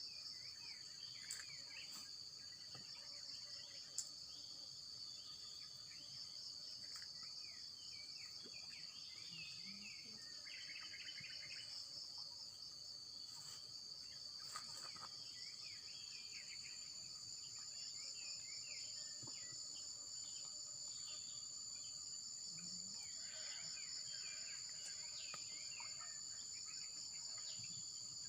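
Steady, high-pitched trilling of an insect chorus, with short chirping calls scattered through it.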